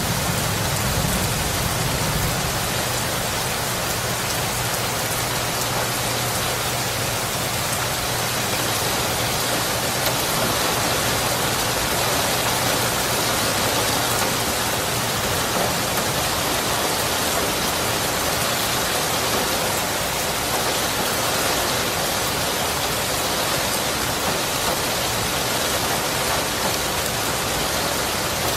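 Steady heavy rainfall, an even hiss of drops on surfaces. A low rumble of thunder dies away over the first few seconds.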